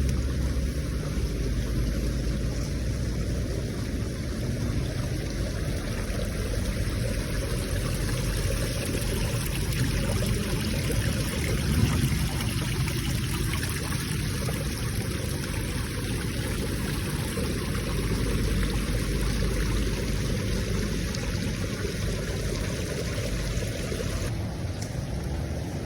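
Steady rushing of moving water, an even noise with a strong low rumble underneath, swelling slightly about halfway through.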